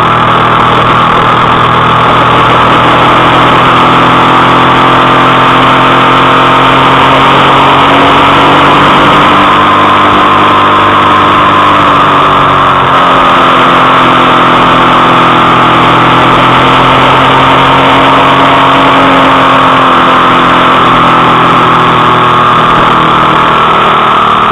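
Suzuki SV650S's 90° V-twin engine running while riding at a steady cruise, its pitch rising and falling gently with the throttle, under a steady rush of wind noise at the bike-mounted camera.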